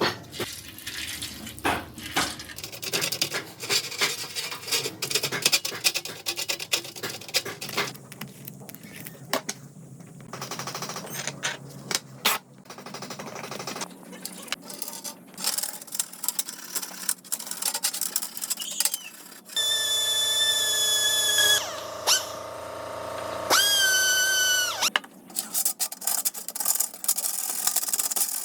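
Small workshop sounds from restoring a Rolex watch: many sharp clicks, taps and scrapes of tools on watch parts. A small motorized machine runs with a steady whine for about five seconds past the middle, its pitch dropping as it slows near the end.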